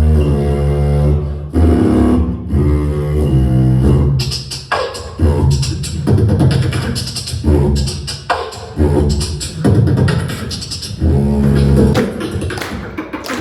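A beatboxer performing a battle round: deep, humming vocal bass lines for the first four seconds, then rapid mouth snares and hi-hat clicks layered over the bass.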